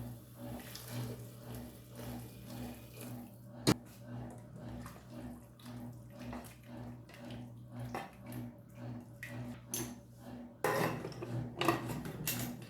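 Kitchen work at a sink: dishes and utensils clinking, with one sharp knock about four seconds in and a tap running near the end, over a steady low hum.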